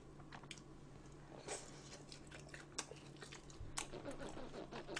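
A person chewing food with the mouth close to the microphone: faint wet mouth sounds with a few scattered sharp clicks and smacks.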